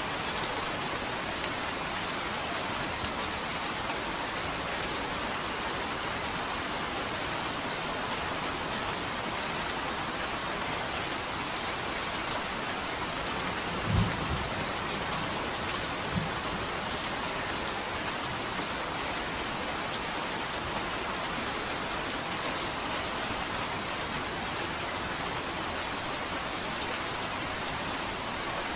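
Steady rain falling, an even hiss. About halfway through comes a brief, low thunderclap, followed about two seconds later by a fainter one.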